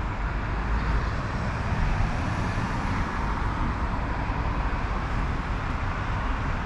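Steady rumble of road traffic, with a faint high whine that rises and falls partway through.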